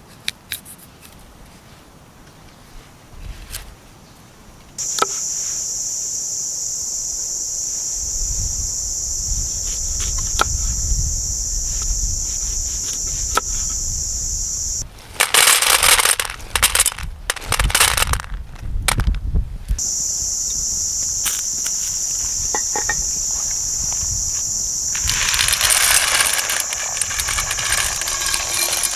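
Insects buzzing in a steady high drone that starts suddenly about five seconds in, breaks off in the middle for several seconds of loud rustling and knocking, then comes back. Scattered sharp clicks and crackles are heard throughout.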